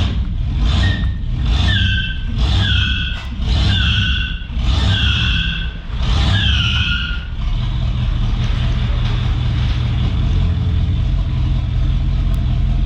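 A 1991 Pontiac Firebird's V8 revved in short bursts with the tires squealing, about six squeals falling in pitch over the first seven seconds: a light burnout. The engine then settles into a steady idle.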